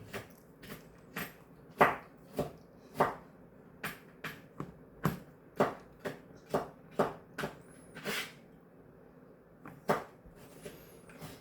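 A series of light, irregular knocks and clicks on a hard surface, about two a second.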